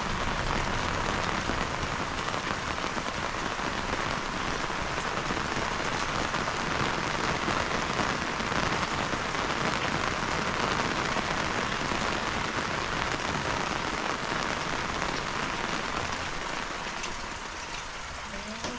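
Rain falling steadily, a dense even patter that eases slightly near the end.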